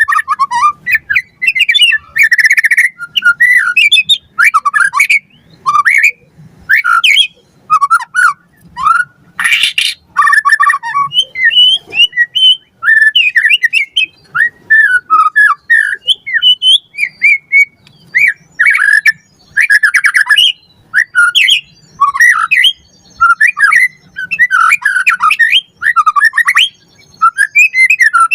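White-rumped shama in full song: a continuous stream of fast, varied whistled and chattering phrases, broken by short harsh rasping notes.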